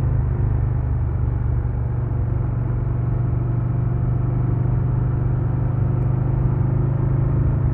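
2022 Harley-Davidson Low Rider S's Milwaukee-Eight 117 V-twin running at a steady, unchanging engine speed, with no revving or gear changes.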